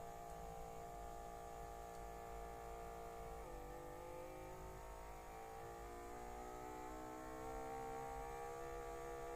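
Small air pump of an automatic blood pressure monitor running with a steady hum as it inflates the cuff's repaired air bladder. Its pitch dips about three and a half seconds in, then climbs slowly while the pressure builds.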